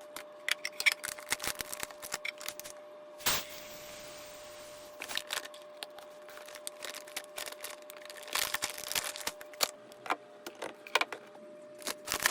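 Groceries being handled and put away: packaging rustling and containers clicking and tapping, with one louder knock about three seconds in followed by a short hiss.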